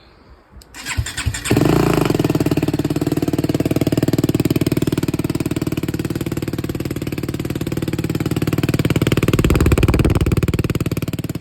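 BMW G 310 GS single-cylinder motorcycle engine, fitted with an aftermarket Akrapovic-style slip-on exhaust, cranked on the starter and catching after about a second, then running at a steady idle through the exhaust. The engine note rises a little around nine to ten seconds in, then settles back.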